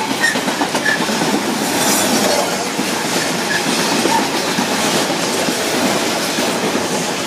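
Freight train passing over the level crossing: a steady loud rumble and clatter of wheels on the rails, with a few brief high wheel squeals.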